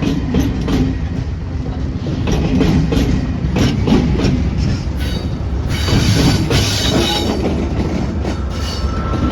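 Train cars rolling past close by, wheels clacking over the rail joints in an uneven rhythm. A high wheel squeal rises about six seconds in.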